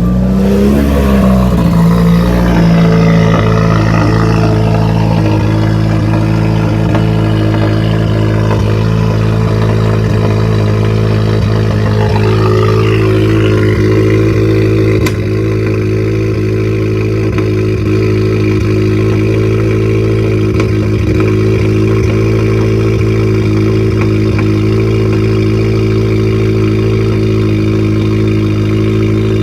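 2015 Subaru WRX's turbocharged flat-four, fitted with an aftermarket J-pipe downpipe and dual-tip exhaust, cold-starting: it catches right at the start, flares briefly, then settles into a steady idle. Its level steps down slightly about halfway through.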